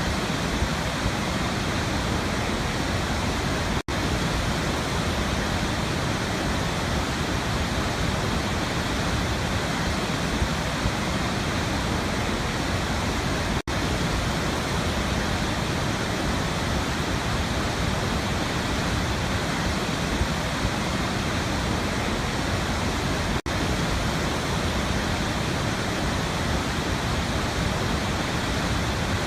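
Waterfall rushing in a steady, dense roar of falling water, briefly cutting out three times about ten seconds apart.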